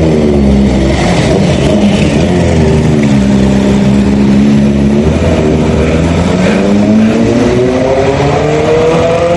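Kawasaki Ninja ZX-10R's inline-four engine running loud, its pitch dropping over the first few seconds, holding steady, then climbing steadily through the last three seconds as the revs rise.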